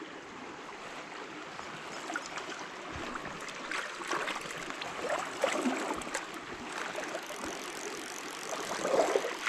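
Shallow stream water running and trickling steadily, with a few small splashes.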